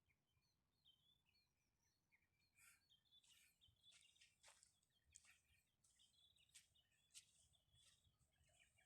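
Near silence, with faint birds chirping and trilling and a few sharp ticks.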